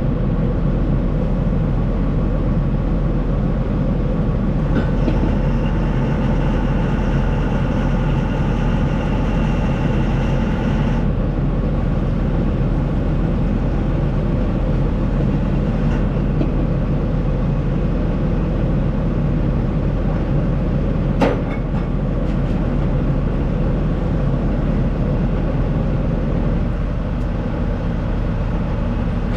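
Tractor-trailer running under way, a steady low engine and road rumble heard from inside the cab. A higher steady whine joins in about five seconds in and stops after about six seconds, and there is one sharp click later on.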